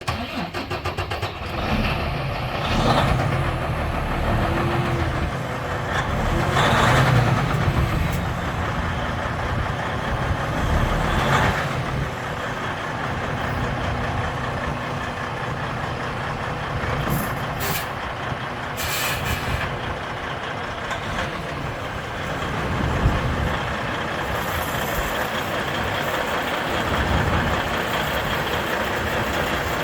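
Freightliner Coronado truck tractor's diesel engine running steadily, with a few brief louder swells in the first half.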